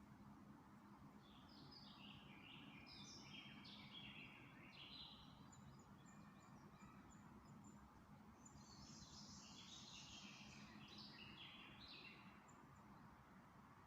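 A songbird singing faintly, two phrases about four seconds apart, each a quick run of notes stepping down in pitch. A faint series of very high ticks comes between the phrases, over a steady low background hum.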